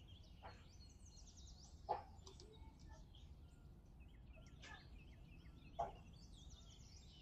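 Faint bird chirps in the background, with two soft clicks from a thin plastic cup being handled as damp sphagnum moss is pressed into it.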